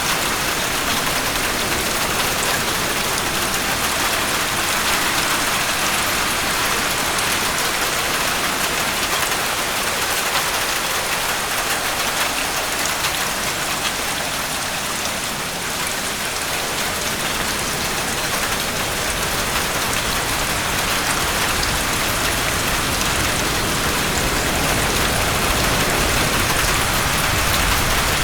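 Steady heavy rain: a dense, even hiss of falling drops, with a low rumble building near the end.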